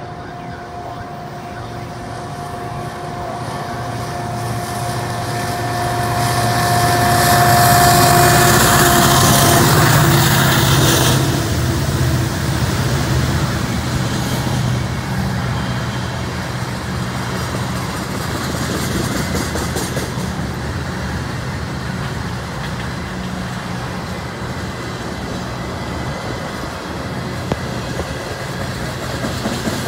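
CN freight train passing below: the diesel locomotive approaches and goes by with a steady whine, loudest about eight seconds in, then a long string of tank cars rolls past with a steady rumble of wheels on rail.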